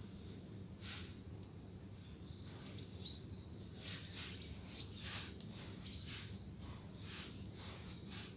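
Damp red gritty clumps being crumbled and crushed on a floor, giving irregular gritty crunches about once or twice a second, with faint bird chirps a few times in the background.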